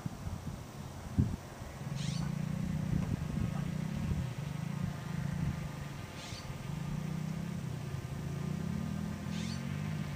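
Remote-control model airplane's motor running at low throttle while taxiing, its pitch rising and falling with the throttle, starting about two seconds in. Three short high chirps cut across it.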